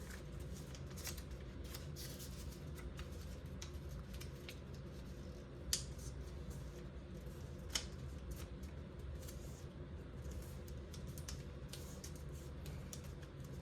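Origami paper being folded and creased by hand: a run of small crisp rustles and scratchy scrapes, with two sharper snaps about six and eight seconds in, over a steady low hum.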